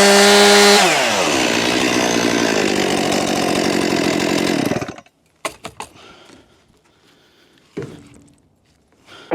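Gasoline chainsaw at full throttle, its pitch dropping as the chain bites into the wood, cutting for about four seconds and then stopping abruptly. A few faint knocks follow.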